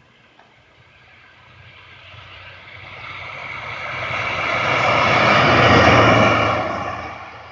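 Train approaching and passing close by, a steady mechanical sound with a low hum that builds to a peak about six seconds in and then falls away quickly.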